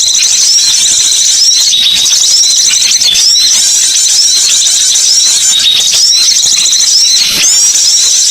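Recorded songbird calls played as a bird lure: a dense, continuous high-pitched chirping and twittering, with short hooked notes repeating about twice a second.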